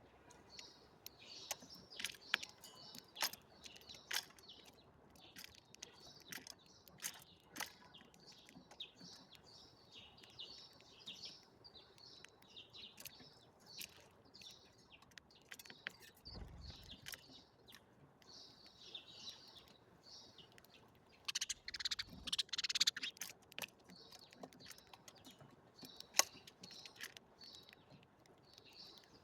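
Small songbirds chirping continuously, many short calls overlapping, with a louder burst of chirping about three-quarters of the way through. Sharp ticks are scattered among the calls.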